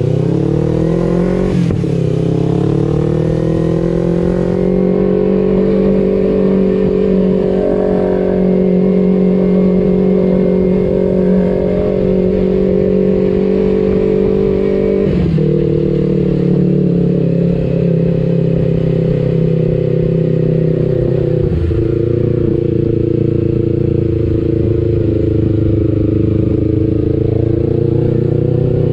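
Kawasaki Ninja 250FI parallel-twin engine running through an aftermarket R9 exhaust while riding: the revs climb at the start, a gear change breaks the note about two seconds in, then it holds a steady cruise. The note dips briefly about halfway and again about two-thirds through, and rises again near the end.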